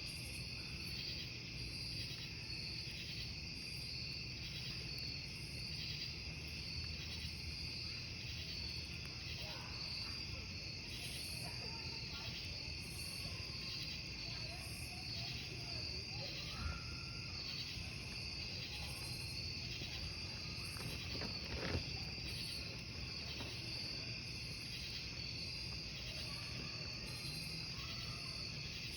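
Crickets chirping in a steady, pulsing chorus over the low, even noise of a wood campfire. Two sharp crackles of burning wood stand out, the louder about two-thirds of the way through.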